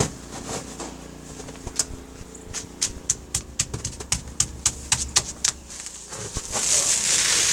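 A run of quick, irregular sharp clicks, then loud rustling noise from about six and a half seconds in.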